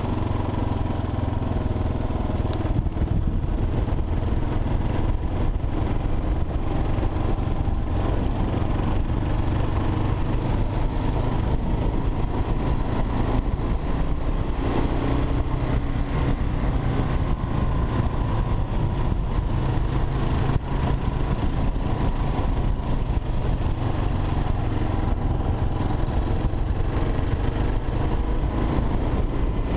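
Kawasaki KLR 650's single-cylinder engine running steadily at an even level, its pitch shifting only slightly.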